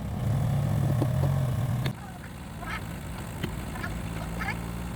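An engine running with a low hum that drops away sharply about two seconds in. After it come several short animal calls.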